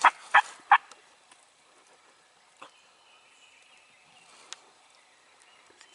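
Three loud, sharp turkey yelps in quick succession, about a third of a second apart, followed by quiet with a couple of faint ticks.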